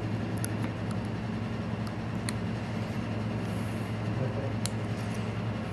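A steady low hum runs throughout, with a few faint, sharp clicks of tweezers working on the iPad 2's parts.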